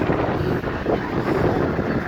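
Wind buffeting the microphone over the steady rumble of running vehicle engines, likely tractors.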